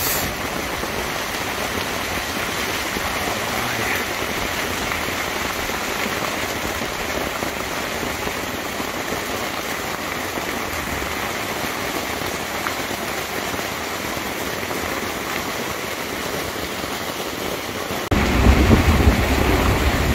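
Heavy rain drumming steadily on the tent fabric, heard from inside the tent. About eighteen seconds in it suddenly gets louder with a deep rumble of thunder.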